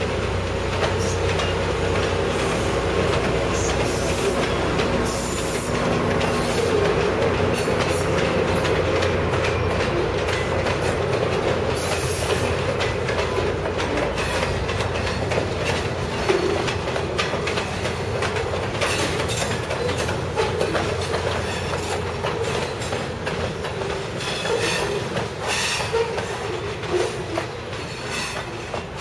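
Freight train of covered hopper cars rolling steadily past, steel wheels clicking over the rail joints with a squeal from the wheels. The diesel locomotive's engine hum fades in the first few seconds.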